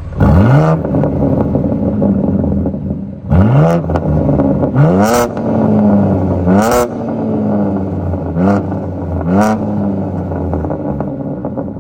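BMW G82 M4's twin-turbo inline-six revved in six quick blips over idle, heard from outside the car through a valved exhaust with catless resonated downpipes and a single mid pipe. Each blip rises sharply and falls back slowly to idle. It settles to a quieter idle near the end.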